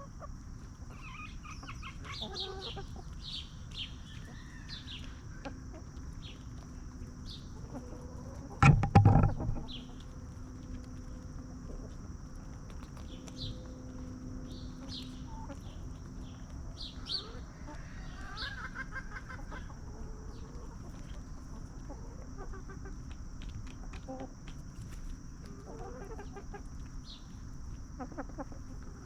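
Free-range hens clucking in short scattered calls as they forage, over a steady high-pitched hiss. A loud, low thump about nine seconds in.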